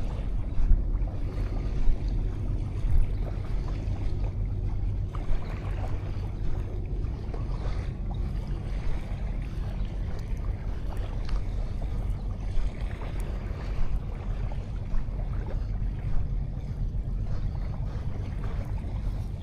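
Steady low rumble of wind on an action camera's microphone over the wash of sea waves on a beach.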